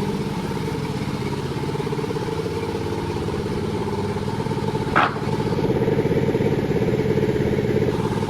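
Two-stroke Panda36 chainsaw engine running steadily, with a short sharp noise about five seconds in, after which it runs a little louder.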